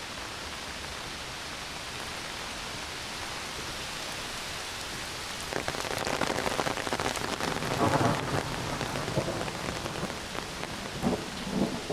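Heavy rain falling steadily in a forest; about halfway through, thunder breaks in with a crackle and rumble that is loudest a couple of seconds later, followed by further rumbles near the end.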